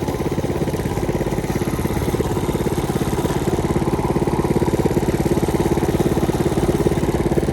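Mini bike engine running steadily with even, rapid firing pulses, getting a little louder about halfway through.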